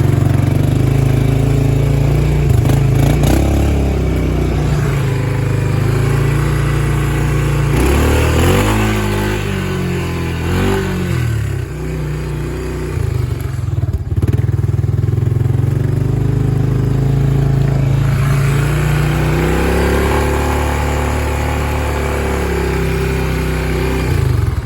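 Engine of a 1996 Honda Big Red 300 ATV running, a single-cylinder four-stroke. It holds a steady speed, rises and falls in pitch several times about a third of the way in, drops off briefly near the middle, then picks up and climbs again toward the end.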